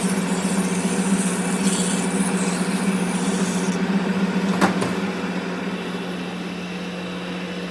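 Steady mechanical running with a strong hum and a hiss over it; the hiss falls away about halfway through, and there is a single sharp click soon after.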